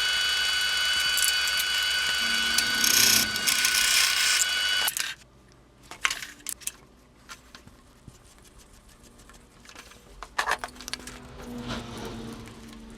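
Electric power tool running with a steady high whine, then switched off about five seconds in. Light clicks, knocks and rubbing of a maple workpiece being handled follow.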